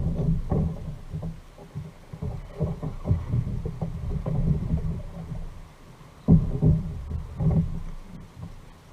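Water sloshing and splashing against a fishing kayak on the sea, with irregular low thumps and surges, the strongest two a little over a second apart near the end.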